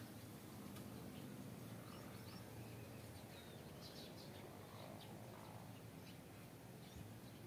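Quiet outdoor ambience with a steady low hum, broken by a few faint, short, high bird chirps scattered through the middle.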